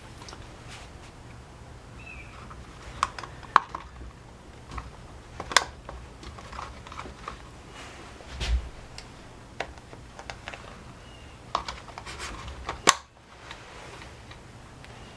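Irregular clicks and taps of small parts and hand tools being handled during reassembly of a string trimmer, with a few sharper clicks, the loudest near the end, and a dull thump about halfway through.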